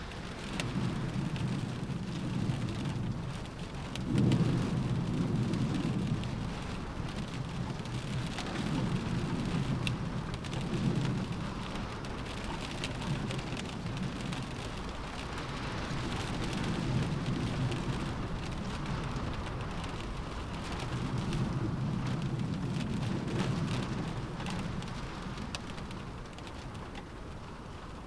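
Rain pattering steadily on a window, with low gusts of wind swelling and fading every few seconds. The strongest gust comes in suddenly about four seconds in.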